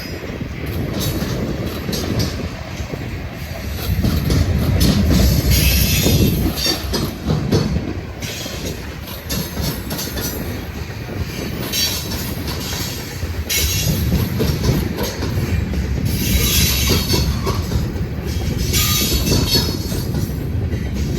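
Freight train cars rolling past with a steady low rumble and clicking wheels over rail joints. Several times there are short stretches of high wheel screech.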